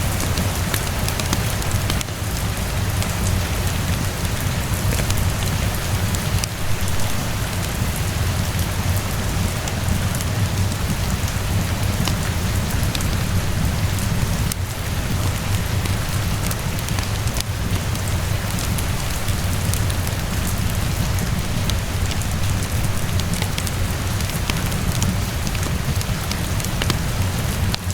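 Steady rainfall with a low rumble underneath and scattered sharp crackles from a wood fire.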